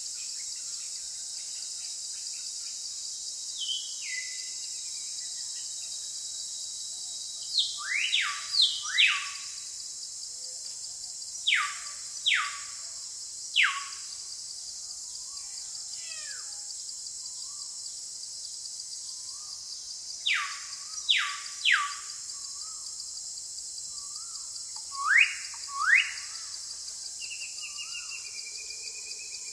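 A bird calling with sharp whistles that sweep steeply down in pitch, in quick runs of two to four, repeated several times, over a steady high-pitched insect drone.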